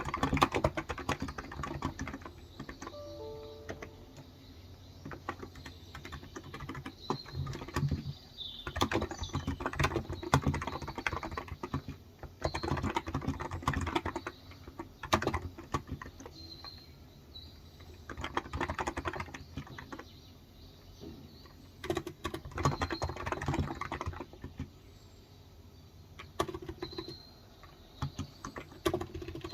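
Typing on a Cox Endeavor tenkeyless electro-capacitive keyboard with light 35 g switches: rapid key clicks in bursts with short pauses between them. Birds chirp briefly and faintly in the background now and then.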